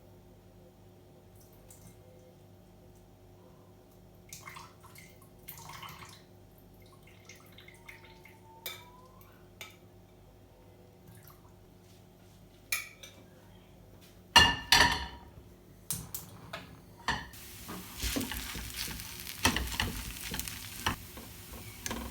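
Kitchen work: scattered light clinks and knocks of dishes and utensils, then a louder clatter about two-thirds of the way through. A few seconds later a steady hiss starts, with more clatter over it.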